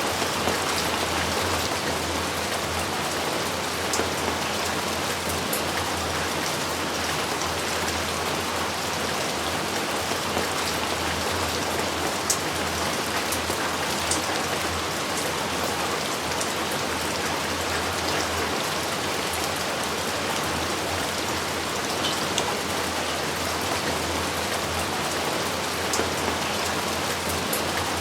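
Steady rain falling as a dense, even hiss, with a few single drops ticking sharply now and then.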